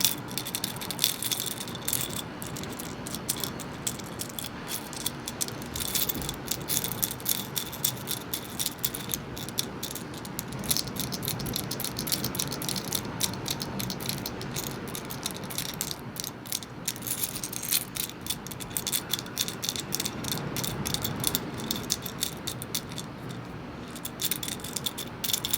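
Small seashells rattling and clinking against each other and against an oyster shell, a dense, irregular clatter of many tiny clicks, with sand trickling off them.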